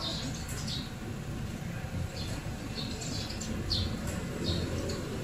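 Small birds chirping, about a dozen short high chirps scattered irregularly, over a steady low rumble.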